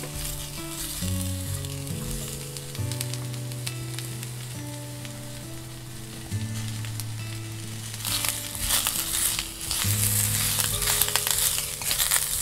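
Shimeji mushrooms and sliced onion sizzling in sesame oil in a steel wok, stirred with a wooden spatula that scrapes and clicks against the pan. The sizzle grows much louder about eight seconds in. Soft background music plays under it.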